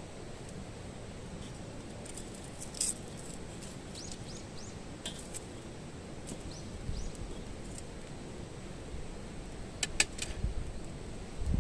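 Low steady outdoor rumble with scattered sharp clicks and clinks, loudest in a cluster near the end, and a few short high bird chirps around the middle.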